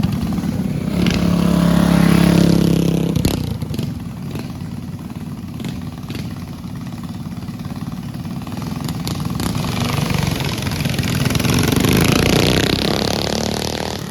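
Small mini bike engines racing past. The engine note is loudest in the first three seconds and drops off suddenly about three seconds in, then a second pass swells toward about twelve seconds and fades.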